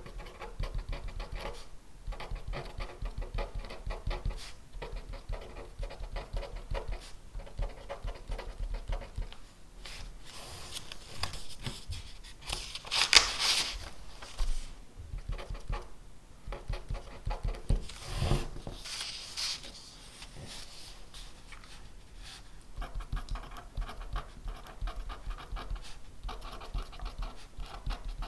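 Pen writing on paper: runs of quick, scratchy strokes, broken by two longer, louder scrapes about halfway through and again a few seconds later.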